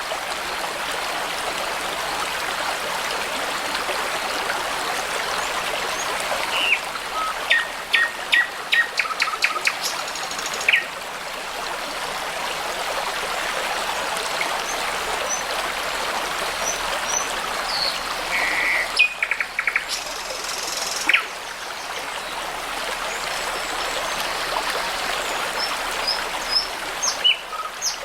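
A brook running steadily, with songbirds calling over it: a run of quick repeated notes about seven to ten seconds in, a few more calls a little past the middle, and a couple near the end.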